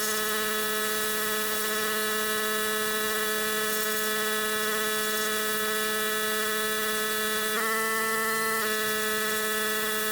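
Kärcher electric pressure washer running, a steady whining motor buzz over spray hiss, its pitch wavering and rising slightly for about a second near the 8-second mark.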